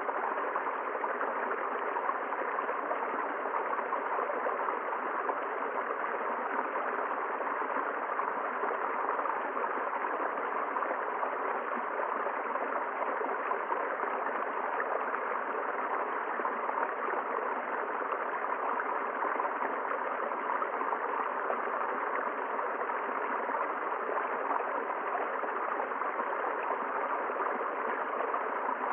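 River water flowing steadily over rocks, an even rushing with no breaks or changes.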